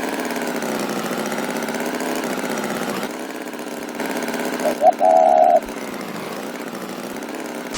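A steady, engine-like buzzing drone with a slight waver. About five seconds in, a short high toot sounds over it.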